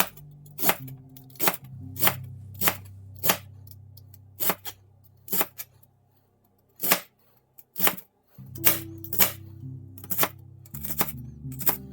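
Knife slicing cabbage thinly, each cut ending in a sharp knock on the cutting board, at roughly one to two cuts a second, with a short break in the middle.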